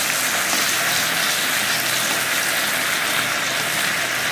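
Boiled potatoes frying in hot oil in a frying pan: a steady, even sizzle.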